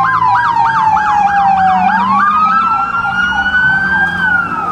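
Two emergency-vehicle sirens sounding together: one on a fast yelp of about three to four sweeps a second, the other a slower wail that falls, rises again about two seconds in, and starts falling near the end.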